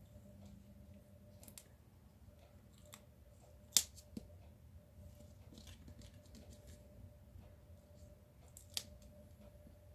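Quiet handling of paper and small adhesive foam dimensionals, with small scattered clicks and two sharper clicks, one about four seconds in and one near nine seconds. A faint steady hum runs underneath.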